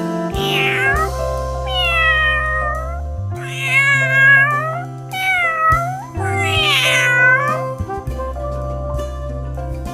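Domestic cat meowing about five times in quick succession, each call a bending, drawn-out meow, over background music with a steady bass line.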